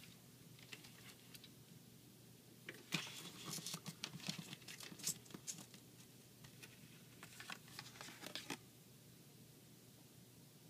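Plastic action-figure parts being worked together by hand, clicking and scraping as a tight-fitting piece is wiggled through. The clicks come in two flurries, one starting about three seconds in and a shorter one near eight seconds.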